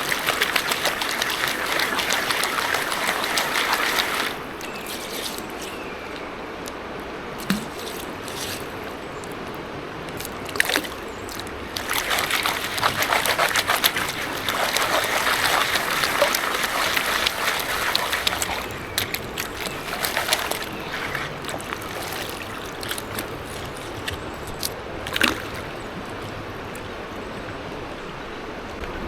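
Water sloshing and trickling in a gold pan as a sample of river gravel is panned down, with small clicks from stones and shot in the pan. The swirling is louder in two spells, at the start and again from about twelve seconds in.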